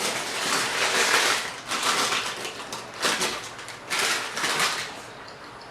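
Close-miked eating sounds: a person chewing food, in noisy bursts roughly once a second that die down near the end.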